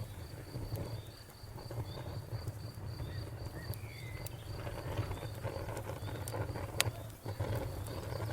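Wood fire burning with a low rumble and scattered small crackles, one sharper pop about two-thirds of the way through. Behind it an insect chirps in an even high pulse, about four times a second.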